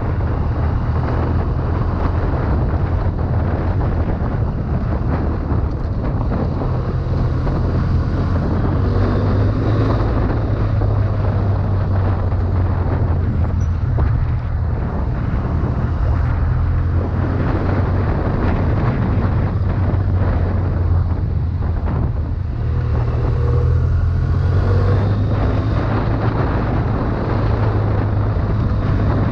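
A 2011 BMW F800ST's parallel-twin engine running steadily with a low drone while riding, mixed with wind and road noise on the camera's microphone.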